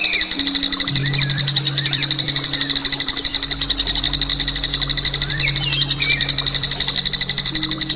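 A songbird's harsh, long rolling trill: a very rapid, even rattle of well over ten notes a second, held without a break, with a few short chirps slipped in.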